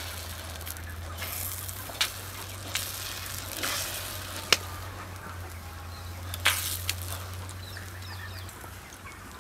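Egg omelette batter sizzling in a hot oiled metal pan while a wooden spoon stirs and spreads it, with a handful of sharp clicks and scrapes of the spoon against the pan, the loudest about four and a half seconds in.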